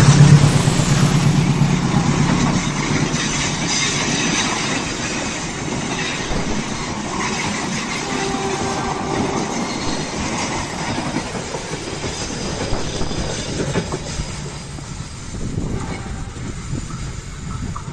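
Commuter train running past on the rails, its wheels clattering over rail joints, fading slowly as it moves away.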